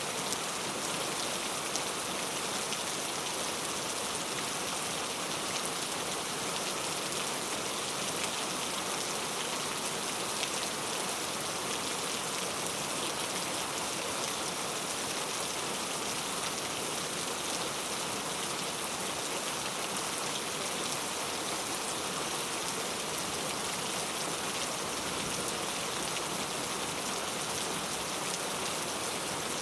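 Heavy rain falling steadily: a dense, even hiss of countless drops striking hard surfaces.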